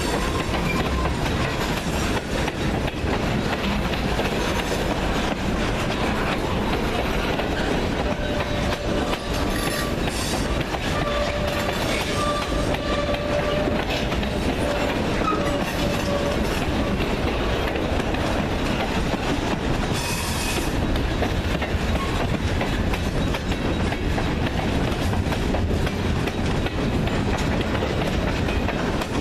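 Freight train cars rolling past at steady speed, steel wheels clattering over the rail joints, with faint thin wheel squeals in the middle.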